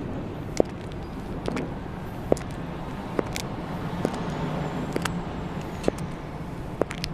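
High-heeled shoes clicking on the pavement at an even walking pace, about one step a second, over a steady rumble of passing car traffic.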